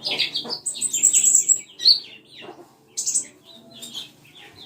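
A konin (kolibri ninja, olive-backed sunbird) singing: rapid runs of high, sharply falling chirps with thin higher notes, in bursts broken by short pauses.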